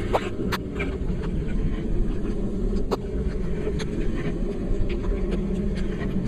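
Steady low rumble of a vehicle in motion, with scattered short sharp ticks.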